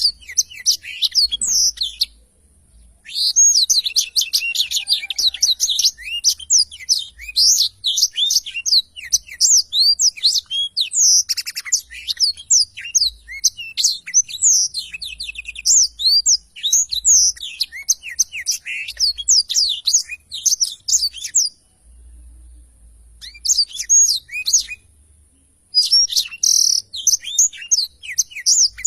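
Black-throated canary (blackthroat) in full song: long bouts of rapid, high twittering chirps and trills, broken by a short pause about two seconds in and a longer pause about three quarters of the way through.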